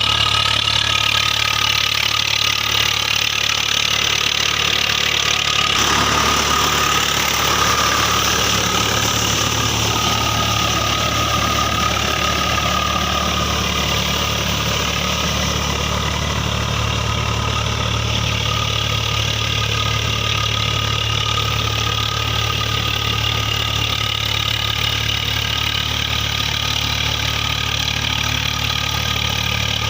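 Tractor diesel engine running steadily. Its note shifts about six seconds in, and a higher tone slowly falls in pitch a few seconds later.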